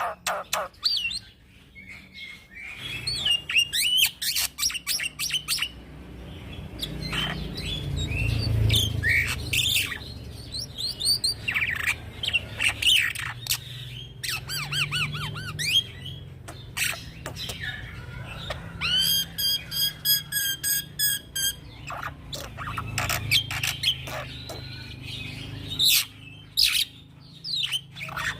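Young black-winged myna singing a long, varied run of chirps, whistles and squawks, with a fast rattling trill about two-thirds of the way through, over a steady low hum.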